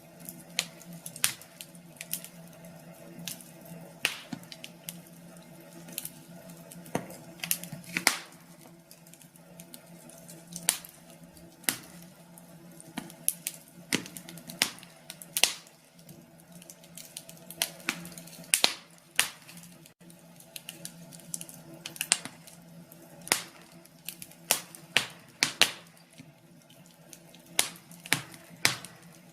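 Wood fire crackling: irregular sharp pops and snaps, sometimes in quick clusters, over a steady low hum.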